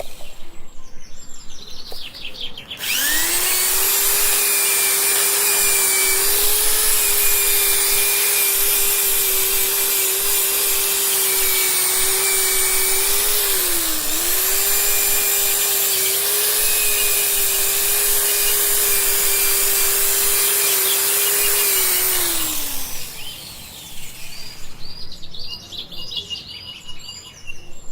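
An electric motor-driven tool or appliance spins up about three seconds in, runs at a steady high hum with a brief dip in speed midway, and then winds down and stops about twenty-two seconds in. Birds chirp faintly near the end.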